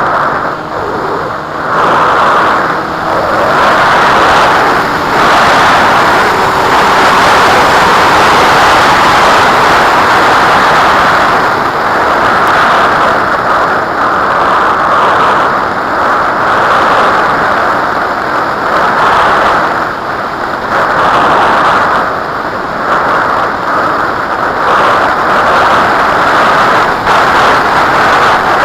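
Loud rushing wind noise on the microphone, a steady roar that swells and dips every few seconds.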